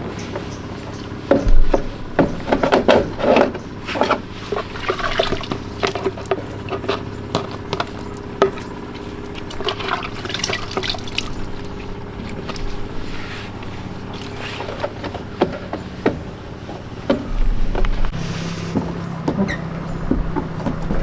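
Water splashing and dripping, mixed with irregular clinks and knocks of parts being handled, over a steady low hum.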